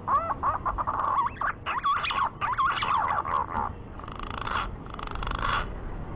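Green pigeon (punai) lure call: a run of wavering whistled notes that rise and fall in pitch, then two short buzzy notes near the end.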